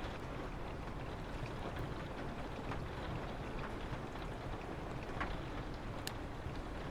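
Steady rain with a low wind rumble, with the scattered sharp crackles and pops of a wood fire; one clear pop comes about six seconds in.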